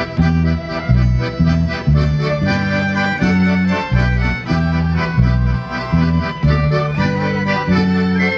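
Instrumental interlude of a Polish folk song, played on accordion: a melody over a bass line that alternates notes on a steady beat, about two a second.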